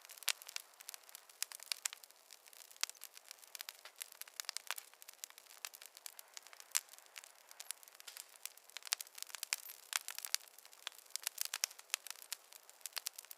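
Wood fire crackling in a fireplace: a dense, irregular stream of sharp pops and snaps over a faint hiss, with no low rumble.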